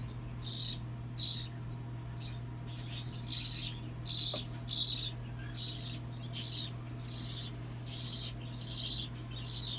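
Hand-reared baby bird giving repeated short, high chirps, about two a second, each sliding down in pitch: the insistent calls of a hungry nestling being fed.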